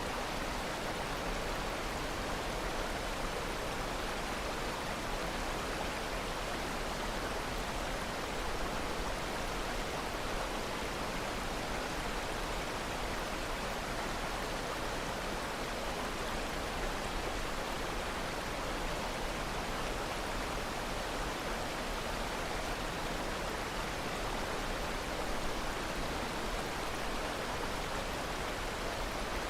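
Steady rushing of flowing water, as of a stream or waterfall, even and unbroken throughout.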